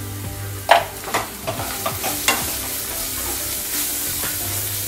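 Chopped onions and ground spices sizzling in hot oil in a kadhai while a metal spatula stirs them, with a few sharp clicks and scrapes of the spatula against the pan, the loudest about a second in.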